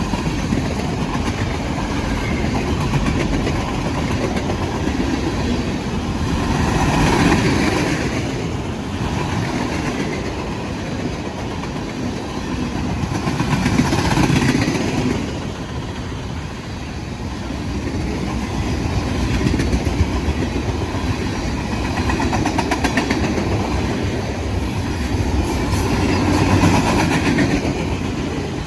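Train rolling past: a steady rumble of wheels on the rails with fine, even clicking, swelling and easing every six or seven seconds.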